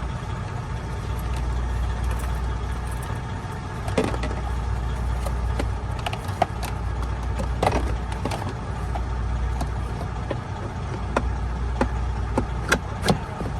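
Scattered plastic knocks and clicks as a truck's cab HVAC blower motor assembly is slid back into its housing, over a steady low hum.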